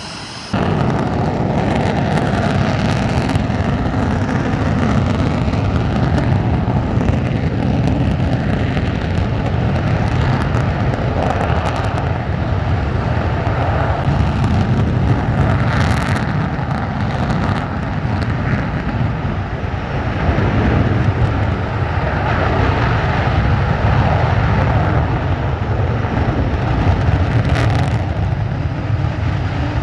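Jet aircraft engines running steadily, a loud even roar with a faint steady whine, buffeted by wind on the microphone.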